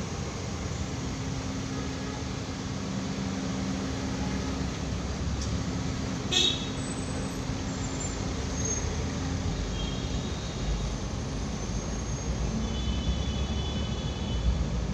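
Steady low road-traffic rumble, with one short high call about six seconds in and a few faint high tones near the end.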